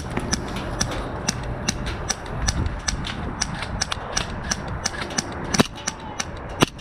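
Airsoft gunfire: sharp snapping shots at irregular spacing, roughly three a second, with two louder shots near the end.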